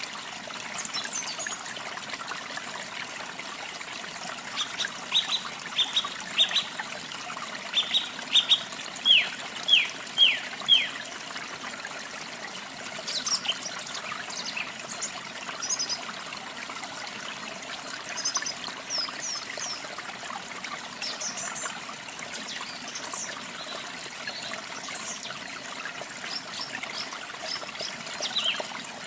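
Running water with a steady rush, and songbirds chirping over it. A run of quick falling notes comes a few seconds in and is loudest at about ten seconds, followed by scattered, higher chirps.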